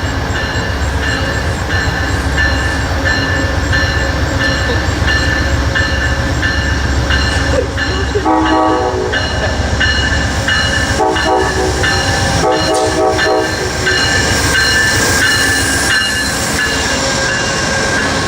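Amtrak passenger train running past with a steady rumble and clatter of wheels on rail, and a ringing whine from the train. Its horn sounds three blasts of about a second each, starting about eight seconds in.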